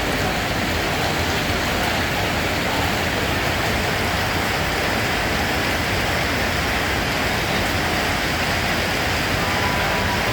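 Steady rain falling, a dense even hiss that stays unchanged throughout, with no single drops or thunder standing out.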